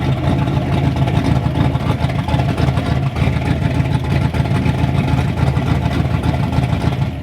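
Turbocharged Ford Ranger engine with a freshly rebuilt top end running steadily during its first runs, then shut off abruptly at the end.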